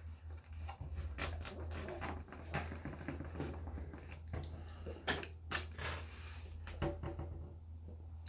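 Close-miked chewing and mouth sounds: a person eating, with many small irregular wet clicks and smacks, over a steady low hum.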